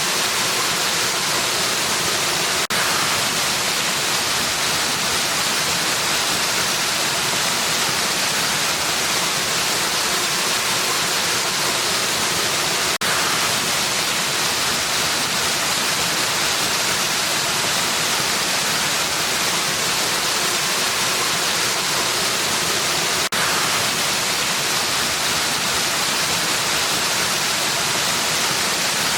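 Waterfall rushing in a steady, dense, hissy roar with no change in level. Three brief clicks with a momentary dip break it, evenly spaced about ten seconds apart.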